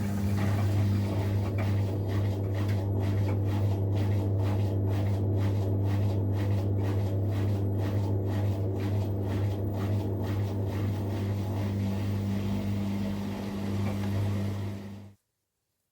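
Miele Professional PW 6065 Vario washing machine in an interim spin, running with a steady low hum and a faint rhythmic swish about twice a second. The sound cuts off suddenly about a second before the end.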